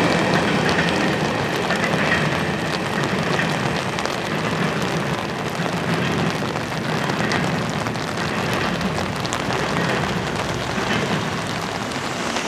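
Grain train's freight cars rolling past: a steady rushing rumble of steel wheels on rail, with scattered light clicks, easing off slightly.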